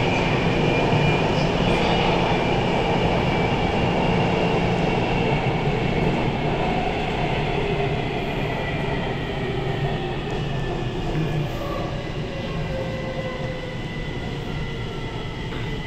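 A train running: a steady rumble with faint whining tones, gradually getting quieter over the second half.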